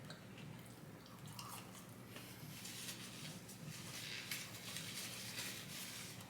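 A person chewing food close to the microphone, with many small wet mouth clicks and smacks.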